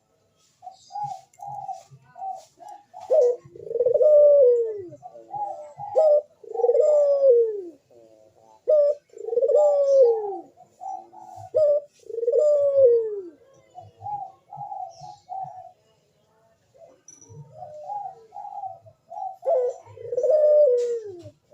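Burung puter, a crossbred domestic turtle dove in breeding condition, cooing over and over. Each phrase is a few short notes followed by a long falling coo, and the phrases come about every three seconds with one longer pause past the middle.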